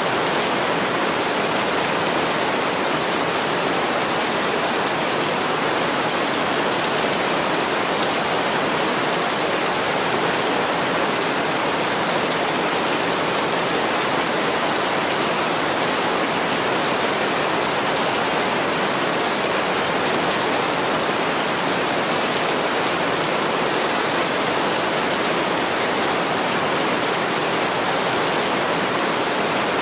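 Heavy rain falling on a window pane, a steady even hiss with no breaks or changes.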